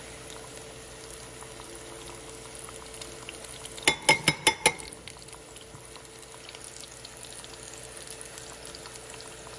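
Tortilla tacos frying in a pan of oil, a steady sizzle, with a quick run of sharp clicks about four seconds in.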